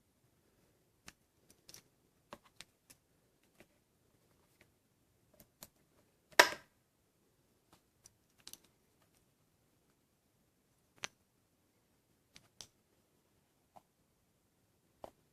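Scattered small clicks and taps of hands working on a ceiling fan light fixture, with one louder, short scrape about six seconds in.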